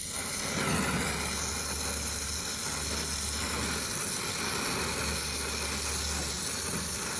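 Brazing torch flame hissing steadily on air-conditioner copper pipe, with a low hum that comes and goes underneath.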